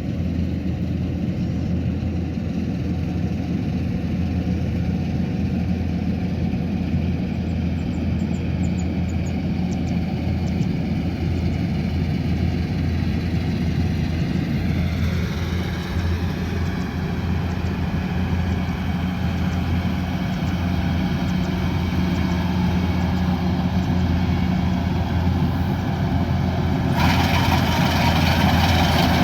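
Kubota combine harvester's diesel engine running steadily with a low drone. About halfway through a falling tone passes and the machine sound grows fuller, and near the end a louder hiss joins in.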